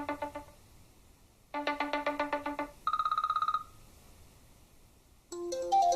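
iOS 7 ringtone previews playing on an iPhone. One ringtone plays a fast pulsing electronic phrase of several notes twice, then a quicker trill on a single pitch. Near the end a different, melodic ringtone starts.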